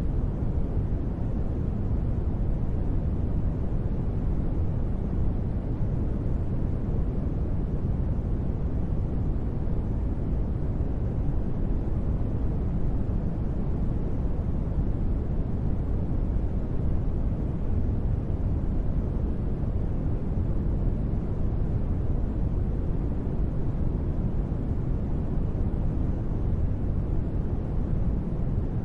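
Steady synthetic ambient noise with most of its weight in the low end, heard as a deep, even rumble with soft hiss above it. There are no changes or events.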